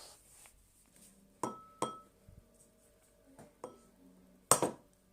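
An egg knocked against the rim of a ceramic bowl: a few sharp, ringing clinks, the loudest near the end, without the shell cracking.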